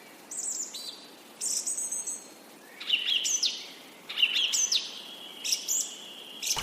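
Birds chirping in short bursts of high, quick calls, about one burst a second.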